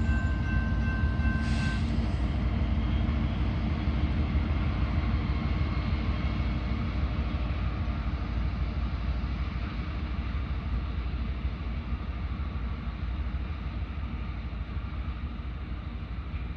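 Coal train's cars rolling past on the rails, a steady low rumble that slowly fades. A thin whine in the wheels stops about two seconds in.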